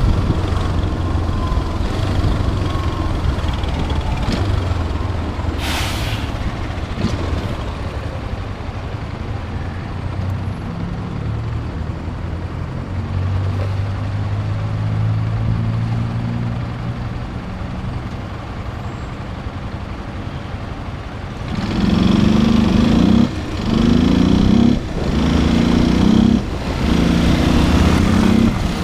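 Motorcycle engine running steadily at low speed. About 21 seconds in it revs up hard and accelerates through several quick gear changes, each marked by a short dip in loudness. A brief hiss sounds about six seconds in.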